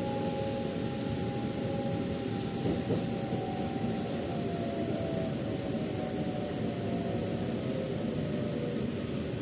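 Metro train running, heard from inside the carriage: a steady rumble and rush of wheels and air, with a faint motor whine of several tones slowly falling in pitch and a brief louder bump about three seconds in.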